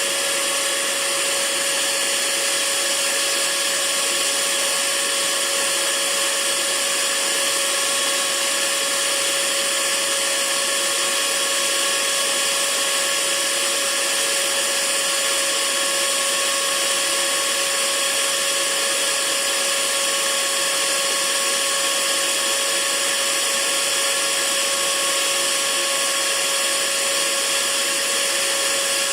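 Electric hair dryer running steadily: an even rush of blown air with a constant motor whine under it.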